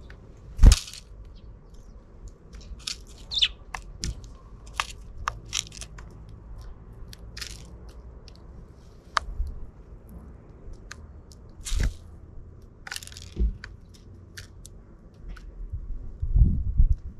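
Sparrows feeding: scattered sharp taps, cracks and short chirps at irregular intervals, with one loud click about a second in and a low rumble near the end.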